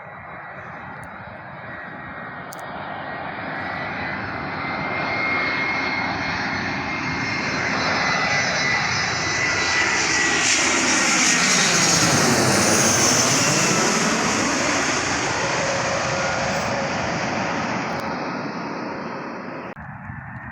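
A low-flying airplane passing directly overhead: its engine noise builds, peaks about twelve seconds in, then fades, and cuts off suddenly near the end.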